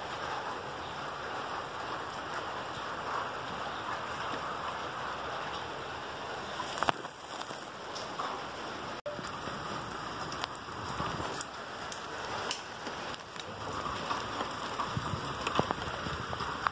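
Steady rain falling and pattering on surfaces, with a few sharp clicks scattered through it.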